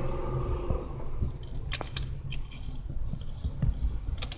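A passing train's rumble dying away, heard from inside a stopped car, with a few scattered short clicks and ticks over a low rumble.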